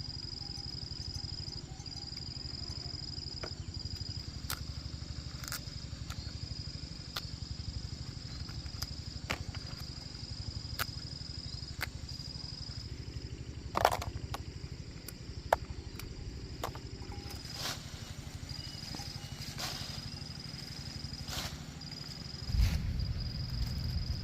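An insect trilling at a high pitch in long stretches with short breaks, over a low rumbling background, with scattered sharp clicks and a louder low-pitched noise starting near the end.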